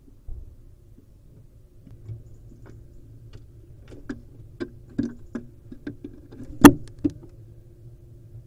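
Irregular sharp clicks and knocks, about a dozen, the loudest one near the end, over a steady low hum.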